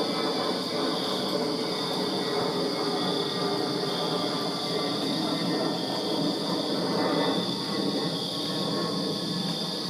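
Crickets chirping in a steady night chorus, one high band swelling and fading every second or so, over a continuous low rumble.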